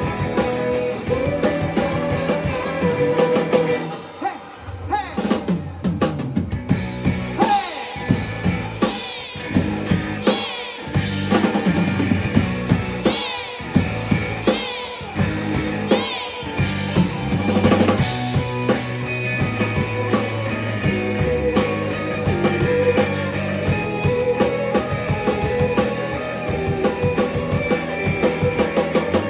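A rock band playing an instrumental passage: a drum kit with snare, rimshots and bass drum, and bending guitar lines over it.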